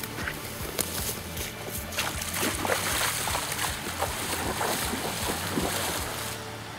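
Small gasoline engine of a homemade 2-inch gold dredge running steadily, with water rushing and splashing through the sluice and scattered small knocks. The sound drops somewhat near the end.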